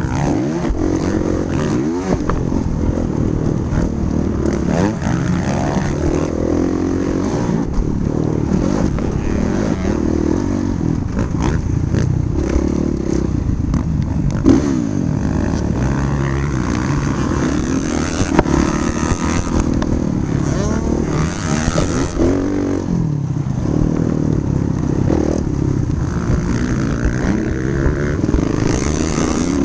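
Motocross dirt bike engine revving up and down again and again as it is ridden round the track, its pitch climbing and dropping through the gears, with one sharp knock about halfway through.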